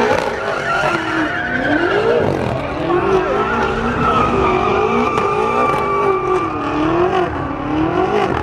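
A car's rear tyres spinning and squealing steadily while its engine revs up and down again and again, as in a burnout or donuts.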